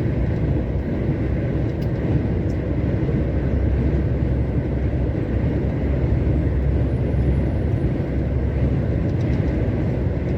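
Truck driving on the road, heard from inside the cab: a steady low rumble of engine and road noise.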